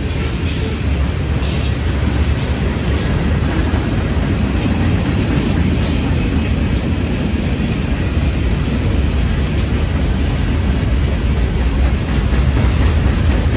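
Freight train rolling past, a steady, loud noise of cars and wheels on the rails that is heaviest in the low end.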